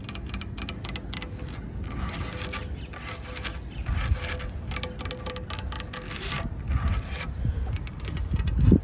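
Close crackling and rustling of dry forest litter such as leaves and twigs, in quick irregular clicks over a low rumble, with a loud low thump near the end.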